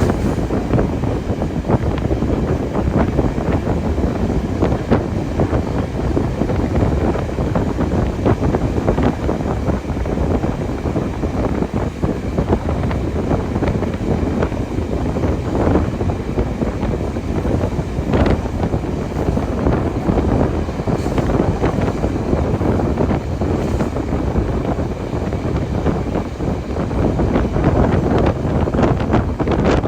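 Moving steam train with heavy wind buffeting the microphone, a steady loud rush of noise with many small knocks and rattles running through it.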